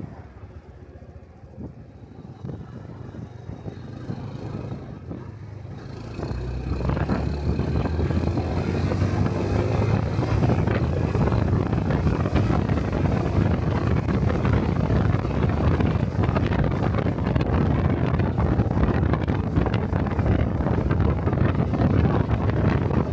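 Honda Cub 125 cc single-cylinder motorcycle engine, running quietly at first, then about six seconds in it pulls away and runs steadily at road speed, with wind rushing over the microphone.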